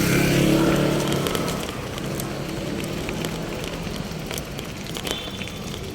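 Road traffic: a motor vehicle's engine running close by in the first second and a half, then steady road noise with scattered crackles and a sharp click about five seconds in.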